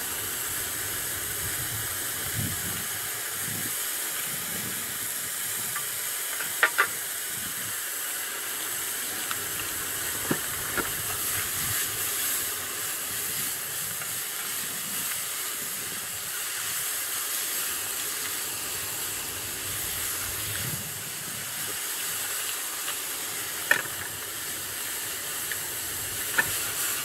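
Steady hissing of cooking over a portable gas burner, with a few sharp clinks of metal utensils scattered through it.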